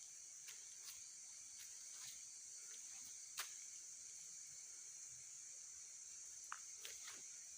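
Faint, steady high-pitched insect chorus, like crickets, with scattered short sharp clicks.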